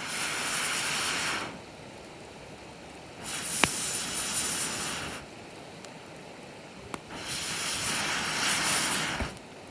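Three whooshing gusts of air, about two seconds each and a few seconds apart, over a wood campfire, with sharp pops from the burning wood between them.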